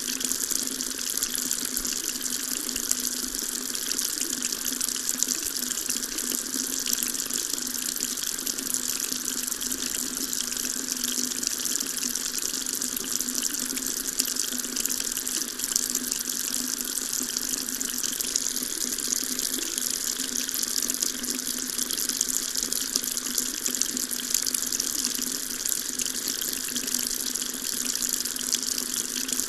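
Water tap running steadily, a continuous stream splashing into a sink with an even, high-pitched hiss.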